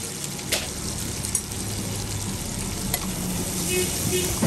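Spiced dried buffalo meat (buff sukuti) sizzling in oil in a frying pan while a metal spatula stirs it, the spatula clinking and scraping against the pan a few times.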